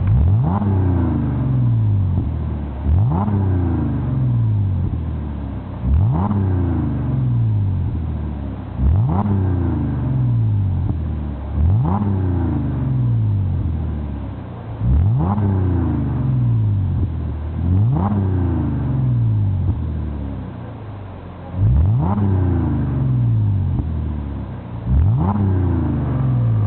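Audi A7 engine through a Supersprint centre and rear muffler exhaust, blipped nine times about every three seconds. Each rev rises sharply and then falls back to idle.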